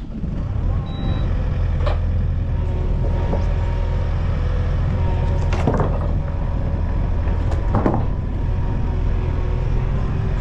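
The power unit of a home-built bandsaw sawmill starts up right at the start and then runs steadily with a low hum, with a few sharp knocks over it about two, six and eight seconds in.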